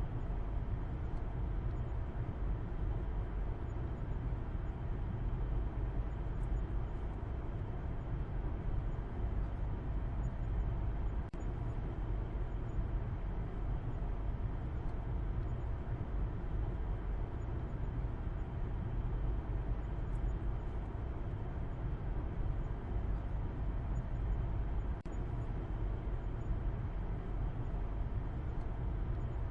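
A car driving at a steady pace: a continuous low rumble of road and engine noise, strongest in the bass, with no change in speed.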